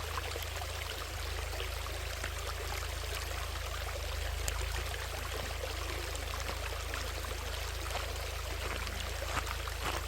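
Valley stream water flowing and rushing over rocks in a steady, even wash, with a steady low rumble underneath.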